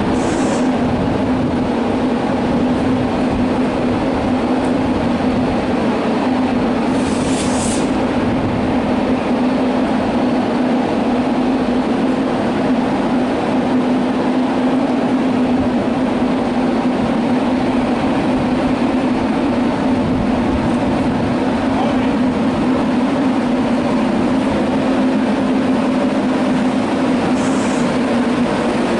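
Class 91 electric locomotive hauling an InterCity 225 set out of the station, a loud steady hum with a strong constant tone. Brief high hisses come just after the start, about seven seconds in and near the end.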